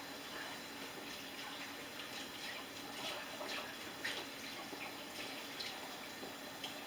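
Kitchen tap running steadily, with a few light clinks of dishes a few seconds in.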